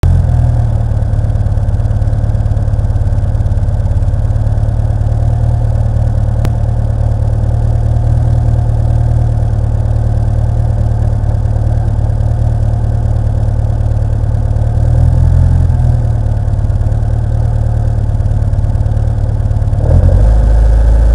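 Ford Escort rally car's engine idling steadily while the car stands still. There is a short lift in the revs about three-quarters through, and the revs rise and get louder about a second before the end.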